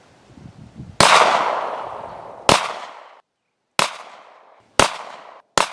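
Glock 19 9mm pistol firing five single shots at a steady pace about a second or so apart, starting about a second in, each shot trailing off in a short echo; the first shot is the loudest with the longest tail.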